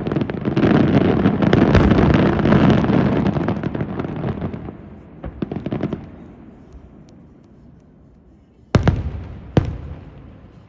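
Fireworks display: a dense barrage of rapid bangs and crackling that dies away over the first five or six seconds, then two sharp loud booms about a second apart near the end.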